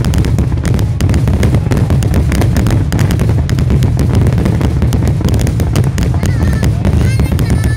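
Fireworks display in a dense, continuous volley: rapid overlapping pops and crackles over steady low booming, with a few short whistles near the end.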